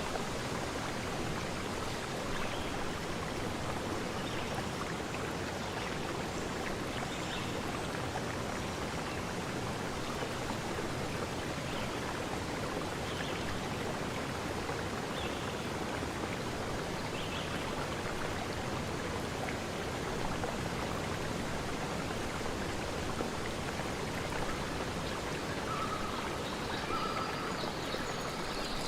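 Stream water flowing steadily, an even rushing wash with no break. A few brief, faint higher notes come in near the end.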